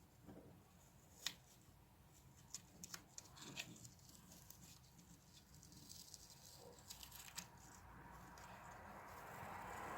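Faint tabletop craft-work sounds: a few light taps and clicks of tools and paper being handled, with a soft rustling hiss that swells near the end.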